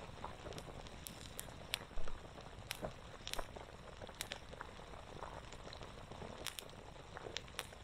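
Wood campfire crackling, with sharp pops at irregular moments, over the steady bubbling of a pot simmering.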